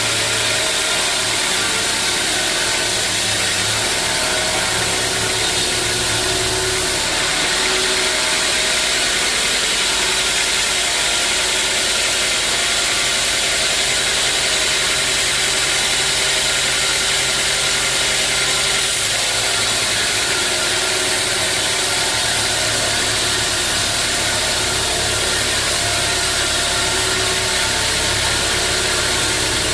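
Sawmill machinery running steadily with a loud, constant mechanical noise while teak logs are sawn; its low hum changes about seven seconds in and again near twenty seconds.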